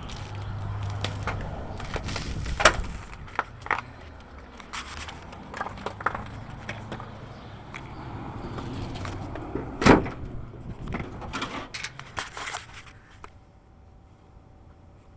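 Handling noises around a pickup truck: scattered clicks and knocks, with two loud bangs about 3 seconds and 10 seconds in, while the truck's stuck throttle is dealt with. A low hum fades over the first few seconds, and it is quieter after about 13 seconds.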